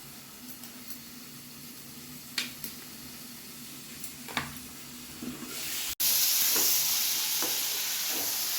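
A few light clicks and taps, then after a sudden break about six seconds in, a loud, steady sizzle of a potato, onion and tomato filling frying in a kadai.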